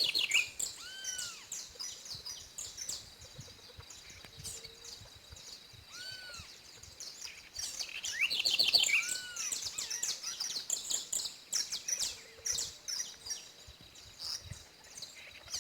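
Saffron finch (canário-da-terra) singing in bursts of rapid high chirps, loudest at the start and again about eight to nine seconds in. A short, arched lower note sounds three times between the bursts.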